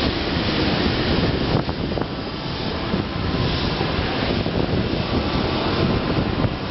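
E7 series Shinkansen pulling into the platform: a steady rush of wheel and air noise.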